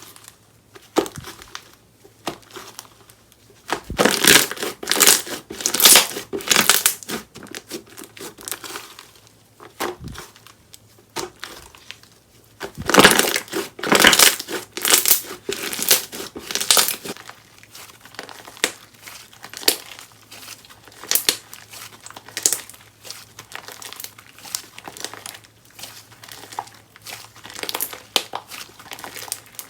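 Slime being squished and pressed by hand, making crackling, crinkly pops in bursts. The bursts are densest and loudest a few seconds in and again around the middle, with sparser pops between.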